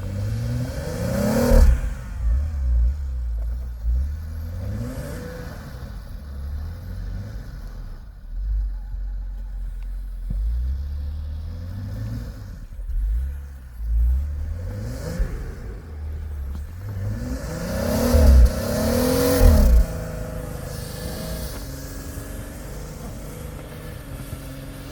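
A vehicle engine revving up and down again and again as it strains to push through deep snow, with heavy low thumps; the hardest revs and two loud thumps come about three quarters of the way through.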